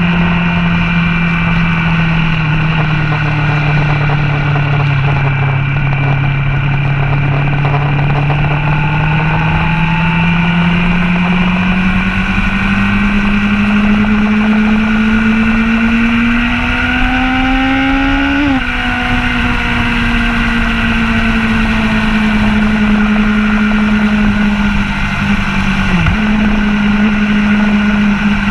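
Motorcycle engine heard onboard at speed, with wind rushing past. The engine note sags, then climbs slowly under acceleration, drops sharply at a gear change about two thirds of the way through, and holds fairly steady with a brief dip near the end.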